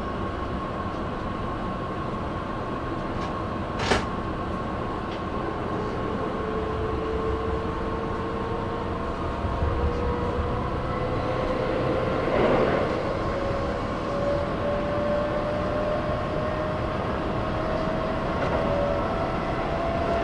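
Keihan electric train running, heard from on board at the front: a steady rumble of wheels on rail with a steady whine and a second whine that rises slowly in pitch, and one sharp click about four seconds in.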